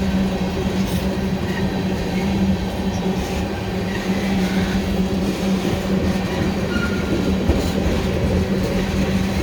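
Norfolk Southern freight train rolling past, with a steady rumble and a low hum. Wheels click now and then over the rail joints.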